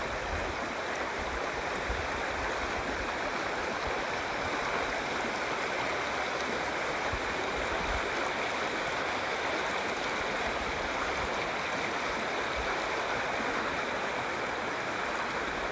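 River flowing: a steady, even rush of moving water.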